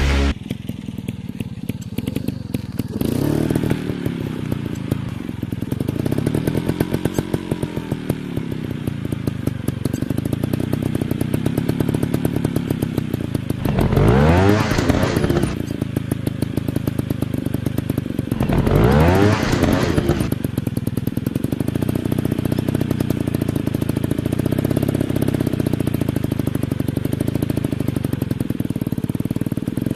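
Dirt bike engine running and being blipped. The pitch rises and falls throughout, with two sharp revs, about 14 and 19 seconds in, that climb and drop quickly.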